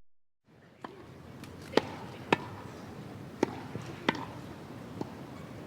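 A series of about six sharp, short knocks at irregular intervals over a steady low background noise, starting just under a second in after a brief cut to silence.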